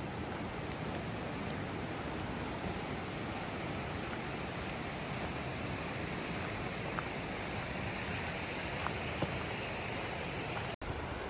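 Steady rushing noise of water, with a few faint ticks and a split-second dropout near the end.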